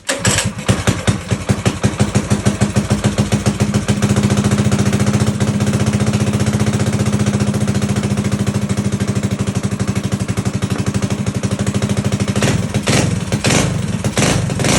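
Small single-cylinder minibike engine catching and running with a fast, even putter, then revved in several short throttle blips near the end.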